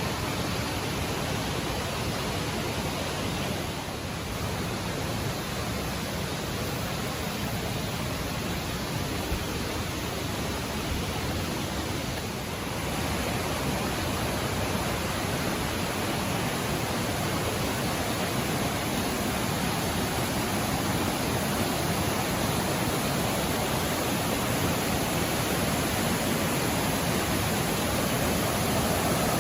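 Mountain valley stream rushing steadily over rocks, growing slightly louder toward the end.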